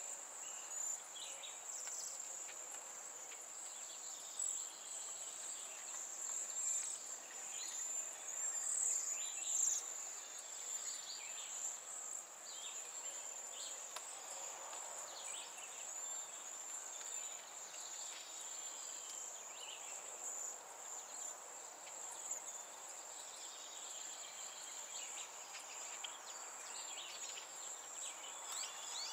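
A steady, high-pitched insect drone, like crickets, runs throughout, with scattered short bird chirps over it.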